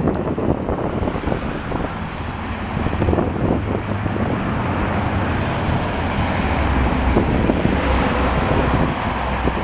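Blizzard wind gusting over the microphone: a steady rushing noise with low rumbling buffets that swell about two thirds of the way through.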